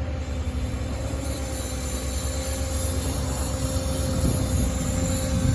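Bucket truck's 6.6 L Duramax diesel running with the PTO engaged, driving the hydraulics as the Altec lower boom is raised. A steady engine drone carries a steady whine, and a thin high hiss starts about half a second in.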